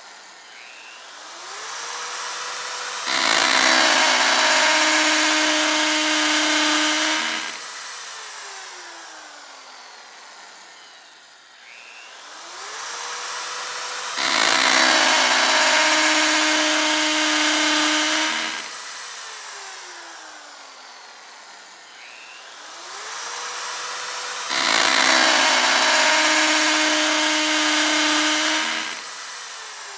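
Electric drill spinning up with a rising whine, drilling with a loud, harsh noise for about four seconds, then winding down with a falling whine. The cycle comes three times, about every eleven seconds.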